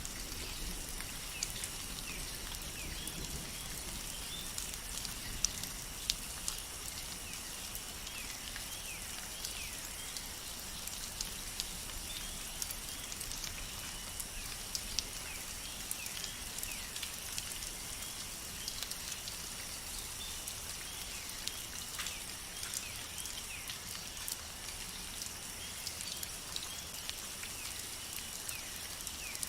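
Rain falling in a rainforest, with many sharp individual drops ticking among a steady patter. Behind it run steady high-pitched tones and short, repeated chirps.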